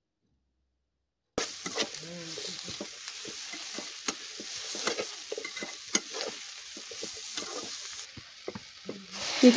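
Sun-dried bottle gourd and chickpeas sizzling in hot oil in a metal pan while a metal skimmer stirs them, scraping and clicking against the pan. The sound starts abruptly about a second and a half in.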